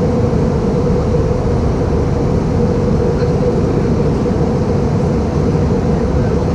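Steady cabin noise of an Airbus A318-111 in flight, its CFM56 engines and the airflow giving an even rumble with a steady hum running through it.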